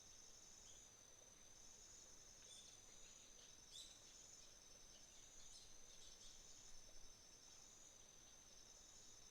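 Faint chorus of autumn insects trilling steadily on one high pitch, with a few brief bird chirps around the middle.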